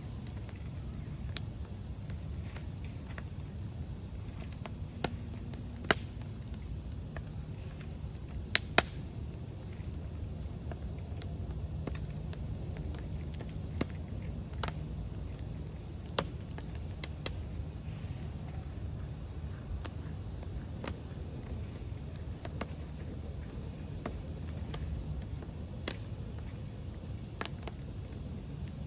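Wood campfire crackling, with scattered sharp pops (the loudest about six seconds in and twice near nine seconds), over a steady high chirping of crickets and a low rumble from the fire.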